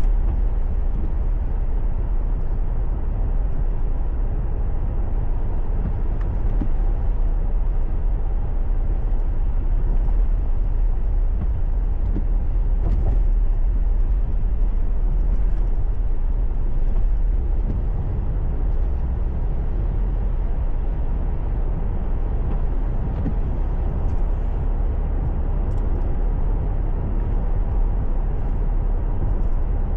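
A car driving on the highway: steady low road and engine rumble with no change in pace.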